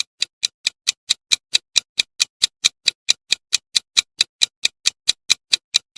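Countdown-timer ticking sound effect: fast, even clock-like ticks, about four and a half a second.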